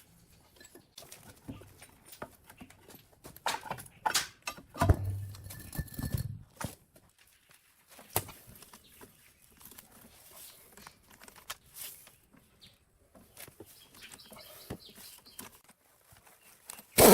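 Scattered light clicks and knocks, like parts being handled in a workshop, with a louder cluster about four to six seconds in.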